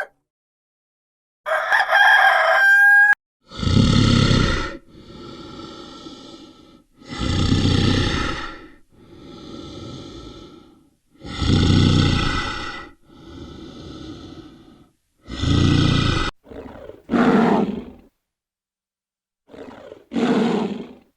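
A rooster crows once. Then a large animal gives one long call, four loud harsh notes alternating with softer ones, followed by a few short calls near the end.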